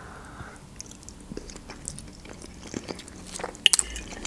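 A person chewing a soft meat-filled dough dumpling (gyurza): faint wet mouth clicks and smacks, with a few sharper clicks near the end.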